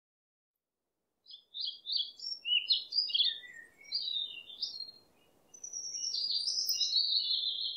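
Songbird singing: quick chirps and warbling phrases begin about a second in, stop briefly around the middle, then return in a longer, more continuous phrase over a faint background hiss.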